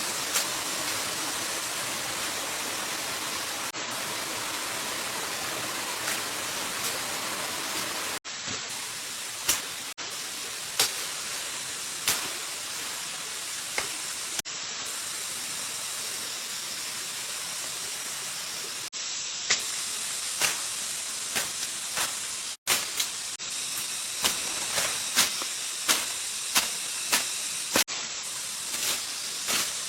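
Steady rush of running stream water, with sharp knocks like blade chops, scattered at first and then a regular run of about two a second in the second half.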